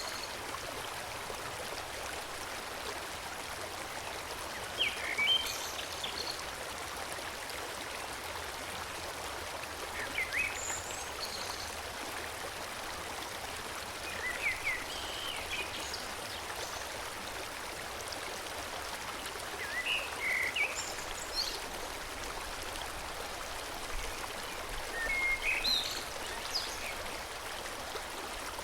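A forest stream flowing steadily. A songbird sings short, high chirping phrases about every five seconds over it.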